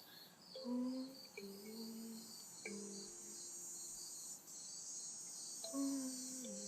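Night insects: cicadas chirping in a steady pulse about three times a second over a continuous high buzz, while a voice hums a slow melody of held low notes that step up and down.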